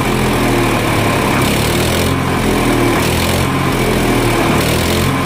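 An engine running steadily at a constant speed, with a hiss that swells and fades about every second and a half.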